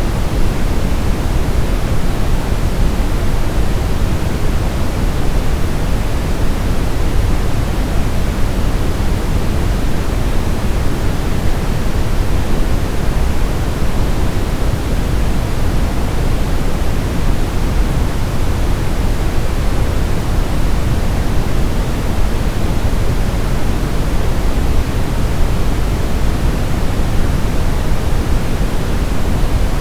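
Steady, unchanging synthesized noise of the kind played as a baby sleep aid, a full hiss weighted toward the low end like pink noise.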